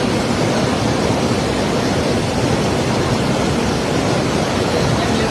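Water rushing steadily out of a dam's opened gates, a loud unbroken roar of falling water.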